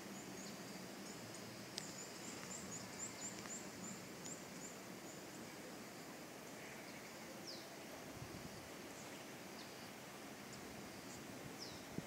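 Birds singing: a quick run of short, very high chirps over the first five seconds or so, then a downward-sliding whistle about halfway through and another near the end, over a faint steady background noise.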